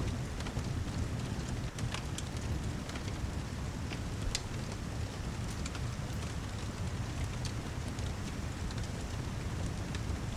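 Steady heavy rain with a low rumble, and scattered sharp pops and crackles of a wood fire, a few each second.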